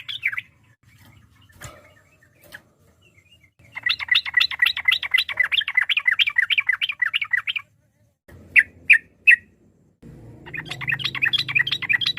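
Yellow-vented bulbul (trucukan) singing in long, fast runs of chirping notes, about five a second. Three loud single notes come in the pause between the runs.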